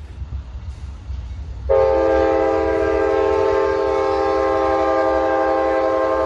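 Amtrak locomotive air horn sounding one long, steady blast, a chord of several notes, starting about two seconds in, over the low rumble of a passing train.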